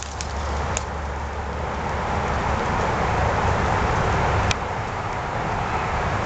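Road traffic passing, a rushing rumble that builds over the first two or three seconds and then holds, with a sharp click about four and a half seconds in.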